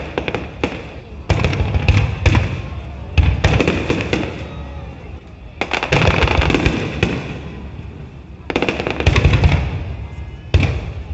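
Aerial firework shells bursting in a display: volleys of sharp bangs, each followed by dense crackling that dies away. A new volley starts every one to three seconds.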